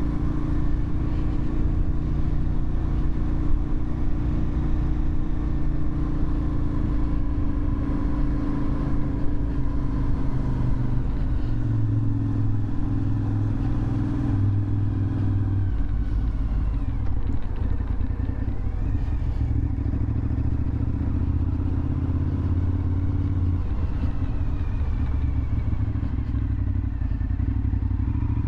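2001 Suzuki TL1000R's V-twin engine running through a LeoVince aftermarket exhaust while being ridden at fairly steady revs. The engine note drops a little about eleven seconds in, then holds steady.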